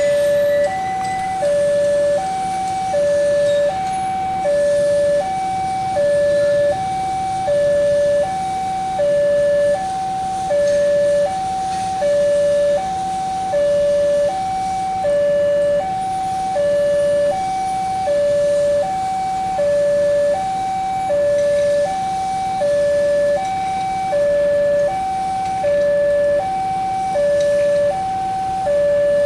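Railway level-crossing warning alarm sounding: an electronic two-tone signal alternating a higher and a lower note, about one high-low pair every one and a half seconds, the sign that a train is approaching the crossing.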